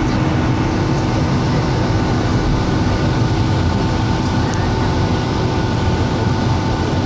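Boeing 757-200 jet engines running steadily at low power: a constant rumble with a steady whine on top and no change in pitch.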